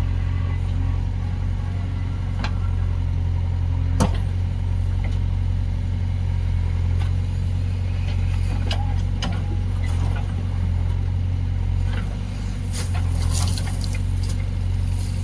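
Heavy diesel engine of a backhoe loader or tractor running steadily at low revs, with a sharp knock about four seconds in and scattered metallic clicks later on.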